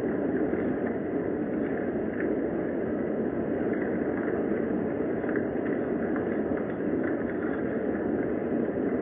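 Steady rain, an even wash of sound with a few faint drop-like ticks.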